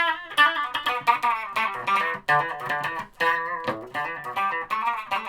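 Electric guitar, a Stratocaster with extra pickups, playing a quick phrase of picked notes, with the middle pickup combined out of phase and in series with a second pickup.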